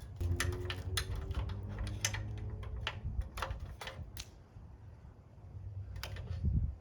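Irregular sharp clicks and taps of hand tools and small metal parts being handled during motorcycle disassembly, a dozen or so in the first few seconds and a couple more near the end.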